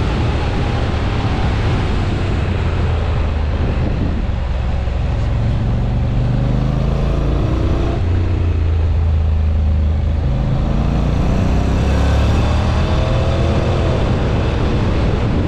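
Honda NC750X parallel-twin engine under hard track riding, its pitch climbing repeatedly as it accelerates, with the climbs broken and restarted as the DCT gearbox shifts, over a steady rush of wind and road noise.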